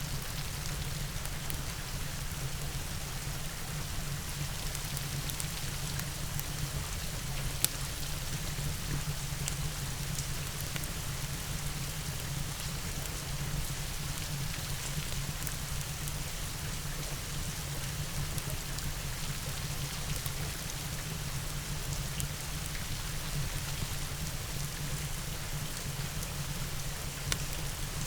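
Steady rain mixed with a crackling wood fire in a fireplace, with scattered sharp pops, the loudest about seven and a half seconds in.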